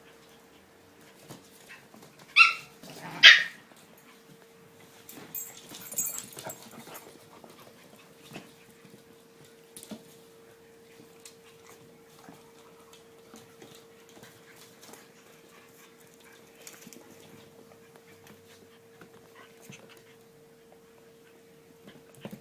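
Young puppies yelping while they play: two sharp high yelps close together about two and three seconds in, then scattered scuffling and small taps. A faint steady hum runs underneath.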